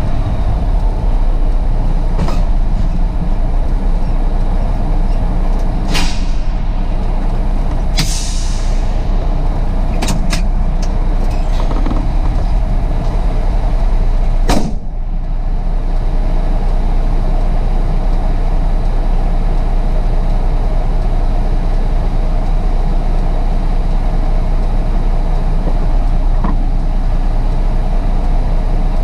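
Heavy diesel truck engine running steadily, with a few short clicks, a hiss of air about eight seconds in, and a sharp knock about halfway through.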